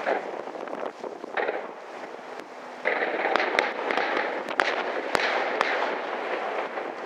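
Aerial fireworks shells bursting: a dense crackling of many small pops that grows louder about three seconds in, with several sharp bangs, the loudest a little after five seconds.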